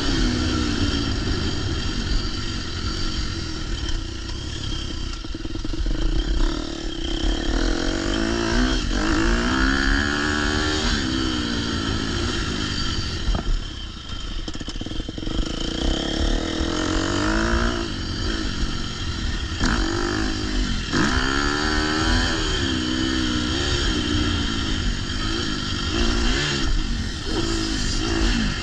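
Husqvarna 250 motocross bike engine revving up and down over and over as it is ridden on the track. The throttle is opened and closed in rising and falling sweeps and eases off briefly about halfway through.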